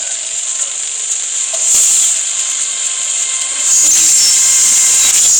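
Beyblade spinning top whirring in its plastic stadium: a steady, high hissing whine that gets louder about two-thirds of the way through.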